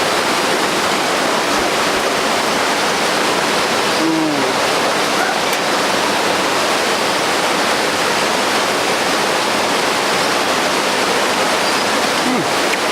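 Steady, loud rushing of falling water, a mountain waterfall or stream, as a continuous hiss without breaks.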